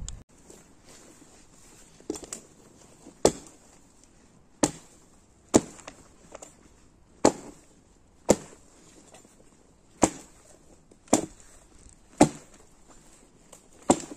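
Wood being chopped: about ten sharp blows, roughly one every second or so.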